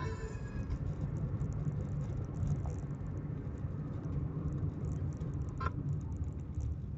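Steady low rumble of a car being driven, heard from inside the cabin: engine and road noise. Music from the car stereo cuts out about half a second in.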